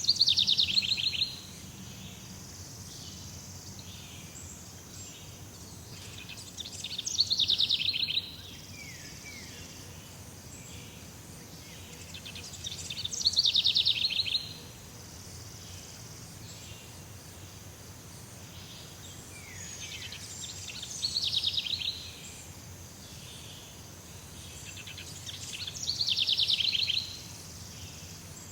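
Jungle ambience: a bird repeats the same fast, rattling trilled phrase about every six seconds, five times, each lasting a second or so, over a steady high-pitched insect drone.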